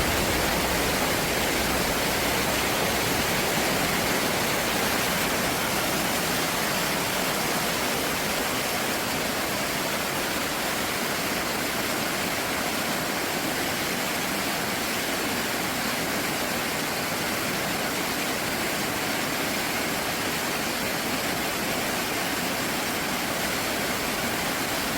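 Stream water rushing steadily: an even, unbroken rush of flowing water.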